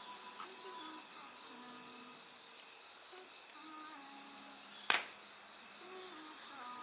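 A steady high chorus of crickets and other insects, with one sharp crack from the burning wood about five seconds in.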